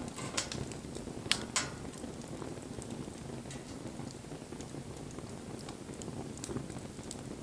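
Wood bonfire burning: a steady low rush of flame with scattered sharp crackles and pops, the two loudest coming close together about a second and a half in.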